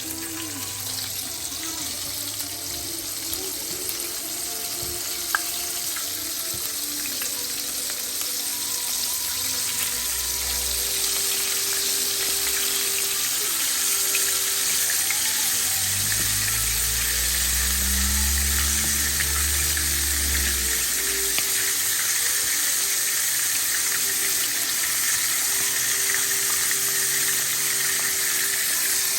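Chicken wings frying in hot oil: a steady crackling sizzle that gradually grows louder.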